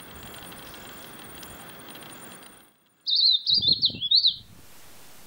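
A bird chirping: a quick run of high, zigzagging notes lasting about a second and a half, starting about three seconds in, with a few low thumps beneath it. Before and after it there is a steady outdoor hiss.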